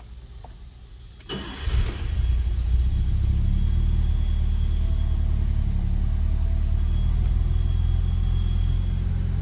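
1974 BMW 3.0 CS's straight-six engine starting a little over a second in, then idling steadily.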